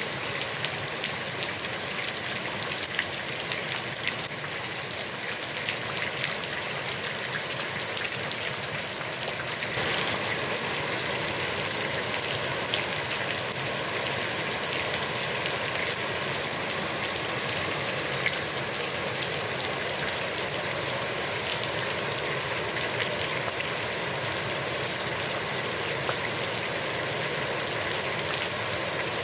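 Heavy rain falling steadily on a pond's water surface, a dense even patter of many small drops.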